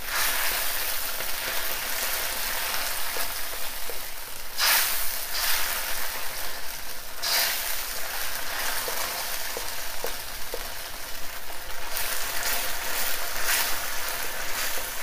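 Beef, onion and thickened sauce sizzling and bubbling in a wok while a spatula stirs through it, with louder surges every few seconds and a few light clicks of the spatula. The sauce has just been thickened with a cornstarch-and-water slurry.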